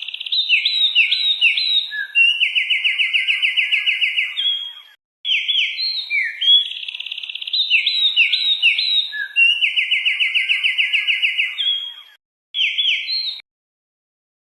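A songbird singing a loud phrase of sharp whistled notes followed by a fast, even trill. The phrase repeats with abrupt, clean breaks between repeats, and the song stops dead about a second before the end.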